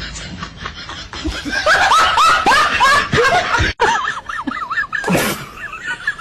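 High-pitched laughter in quick repeated bursts, loudest in the middle, with a short breathy burst near the end.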